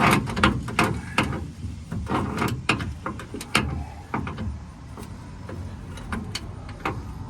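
Hand ratchet clicking in short strokes on a tight, rusted bolt; the clicks come thick at first and thin out about halfway through.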